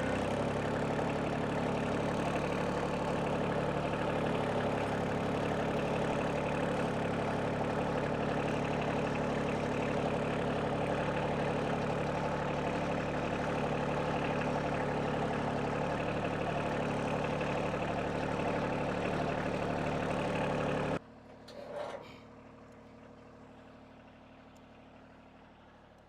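Kioti CK2610 compact tractor's three-cylinder diesel engine running steadily while it carries a heavy oak log in the grapple. The engine sound stops abruptly near the end, followed by one brief faint sound and low background.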